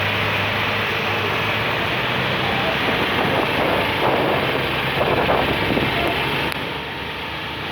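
Vehicle running in traffic with a steady rush of noise and wind buffeting the microphone; faint voices come through about halfway.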